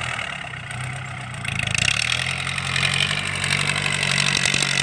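Engine running through an open, straight-through racing exhaust with no turbo, a loud exhaust note at a steady idle that picks up a little, with more rasp, about two seconds in.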